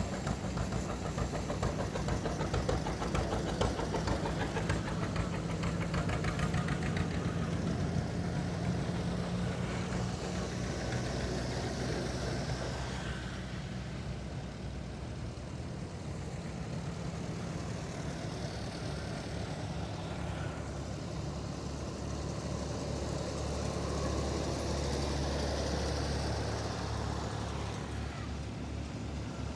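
Old farm tractor engines running as the tractors drive past one after another, the low engine note changing partway through as a different tractor comes by.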